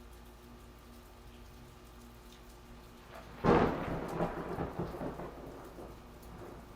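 A thunderclap about halfway through: a sudden loud clap followed by rumbling that swells a few times and fades over two to three seconds, over light, steady rain.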